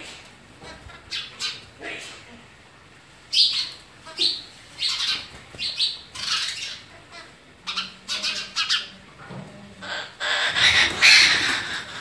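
A babbler giving a string of short, harsh, rasping calls, ending in a louder, drawn-out run of calls near the end.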